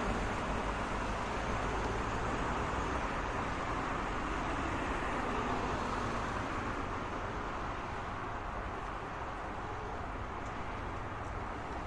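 Steady road traffic noise, a continuous wash of passing vehicles and tyres with no single vehicle standing out, easing slightly in the second half.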